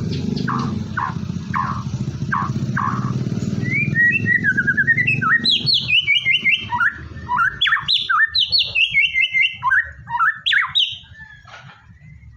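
White-rumped shama (murai batu) singing. It starts with short falling notes repeated about twice a second over a low background rumble, then from about four seconds in breaks into a fast, varied run of loud whistles that stops near the end.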